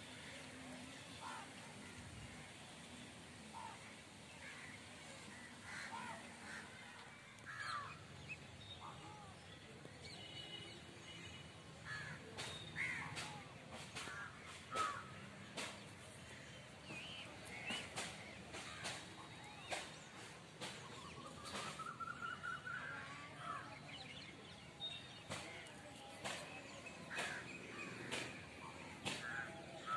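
Birds calling on and off, faintly, over quiet outdoor background, with a run of sharp clicks through the middle.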